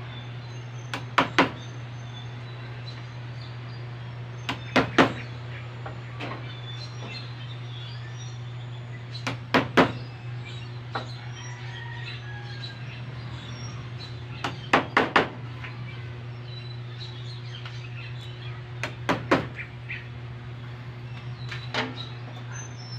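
Staple gun fixing a new cover onto a motorcycle seat: sharp clacks in quick groups of two or three, repeated about every four to five seconds, over a steady low hum.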